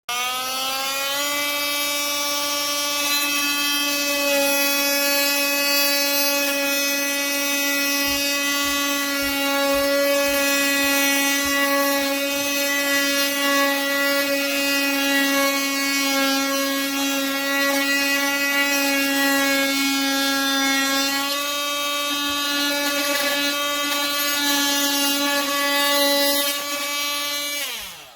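KIMO 20V cordless oscillating multi-tool running steadily with a high, even buzz. It spins up at the start, its pitch steps up slightly about two-thirds of the way through, and it winds down and stops at the end.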